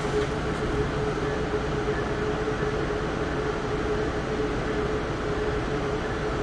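Amtrak Keystone passenger train heard from on board, rolling steadily: a constant rumble of wheels and running gear with a steady hum held at one pitch.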